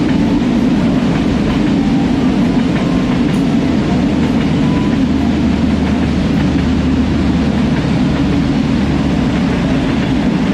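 Passenger train coaches passing close by: the loud, steady noise of steel wheels running on the rails, with a low hum for a few seconds midway as the rear cars go past.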